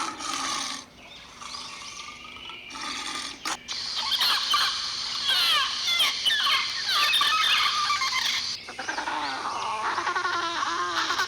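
Animal calls in several short clips spliced one after another, with abrupt changes between them. The middle stretch is full of many quick, high chirps, and near the end come lower, pitched calls.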